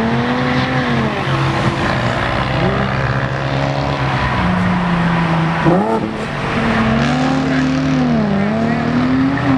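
Several car engines running at once, one revving up and down repeatedly over a steady lower drone, with a sharp quick rev just past halfway, as modified cars pull away from the roadside.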